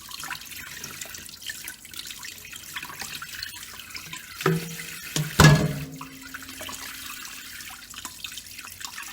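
Tap water running into a kitchen sink as raw poultry wings are rinsed under it. About five and a half seconds in there is a sharp knock, with a smaller one just before it.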